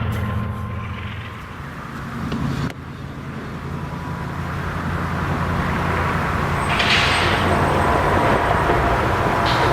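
Diesel locomotive engines running with a low, steady drone as a freight train draws near, growing louder after a sudden drop about a third of the way in. Brief hissing bursts come twice near the end.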